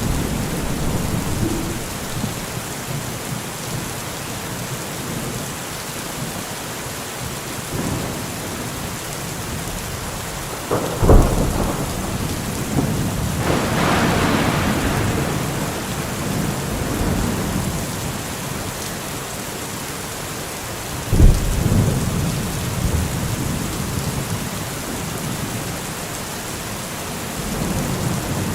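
Steady rain with thunder. A sharp thunderclap comes about a third of the way in, then a longer rolling rumble, and a second sharp clap about two thirds of the way in, each clap trailing off into low rumbling.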